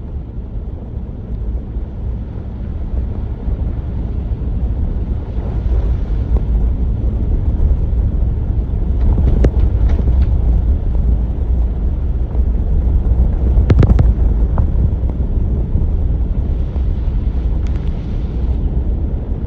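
Steady low vehicle rumble with wind buffeting the microphone, and a few sharp clicks or knocks around the middle.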